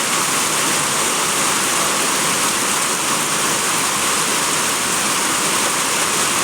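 Rain falling steadily: an even, unbroken hiss of a heavy shower.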